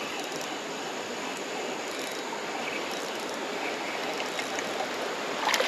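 Steady rush of flowing creek water, with a brief cluster of short sharp sounds near the end.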